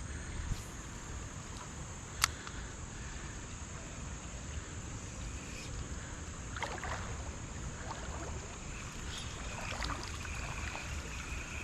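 Creek water sloshing and moving, over a steady high drone of insects. There is one sharp click about two seconds in.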